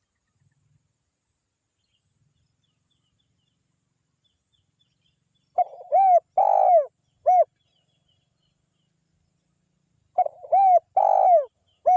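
Spotted dove (tekukur) cooing: two phrases of rounded, arching coos, each of about four notes with the last note set a little apart, starting about five and a half seconds in and repeated about four and a half seconds later.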